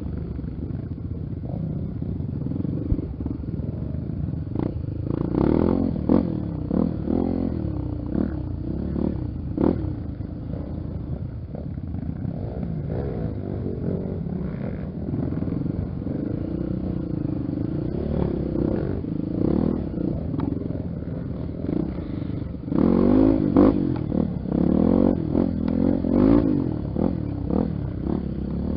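Honda XR 250 Tornado's single-cylinder four-stroke engine running on a trail ride, its pitch rising and falling with the throttle, with short knocks and rattles over rough ground. The revving is louder near the end.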